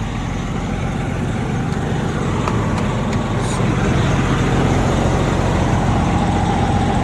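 Semi truck's diesel engine running steadily, its sound growing a little louder over the first few seconds and then holding.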